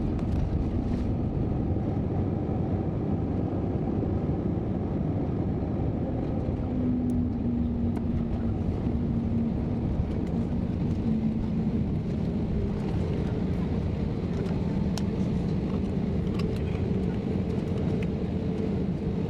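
Airbus A321neo airliner noise heard from the cabin: a steady drone of engines and airflow, with a low hum that shifts slightly in pitch about halfway through.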